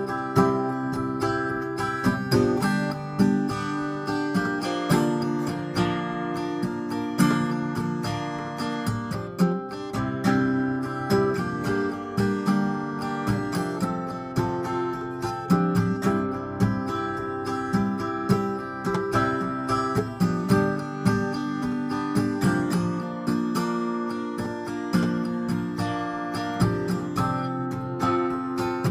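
Solo acoustic guitar playing a steady flow of plucked notes and chords, with no singing.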